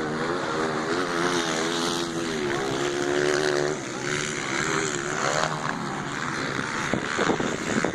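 Motocross dirt bike engines running and revving, their pitch rising and falling as the throttle is worked.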